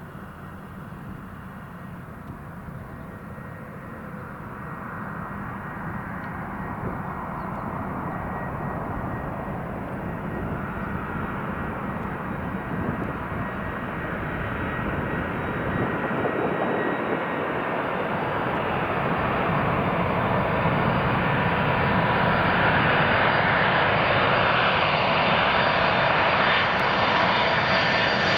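Boeing 747 on approach to land, the rumble and whine of its four jet engines growing steadily louder as it comes closer.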